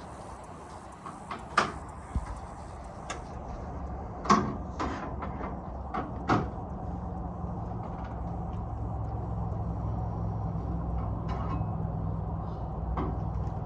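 A series of sharp metal knocks and clunks from tools and parts during repair work, then a steady low engine-like hum that sets in about seven seconds in and keeps going.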